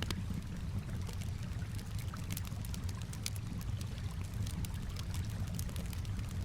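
Campfire crackling with frequent, irregular sharp pops and snaps, over a steady low wash of gently moving water.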